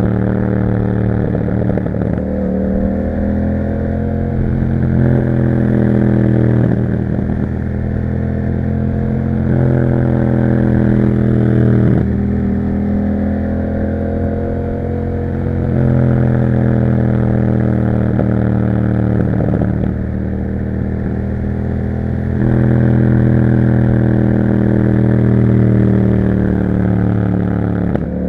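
Yamaha MT-07's 689 cc parallel-twin engine through an Akrapovic exhaust, running under way. Its pitch climbs and drops several times as the bike accelerates and shifts gear.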